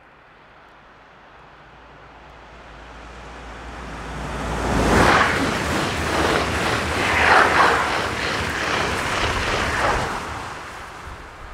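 RER D electric commuter train passing at speed: a rushing noise that builds over about five seconds, stays loud for about five more with two surges, then fades.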